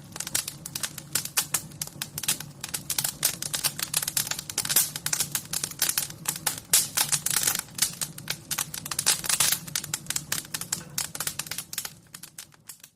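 Fire crackling, with dense irregular snaps and pops over a low steady hum, fading out near the end.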